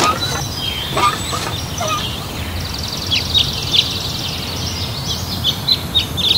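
Outdoor ambience of birds chirping in short falling notes, with a fast trill in the middle, over a steady low background rumble.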